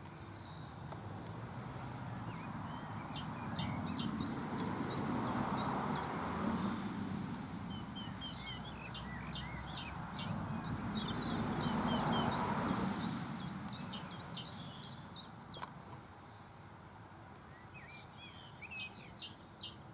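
Small woodland songbird giving an alarm call: quick series of short high notes, repeated every few seconds. The birder takes it for a bullfinch but is not sure of the call. Under it is a rushing background noise that swells twice.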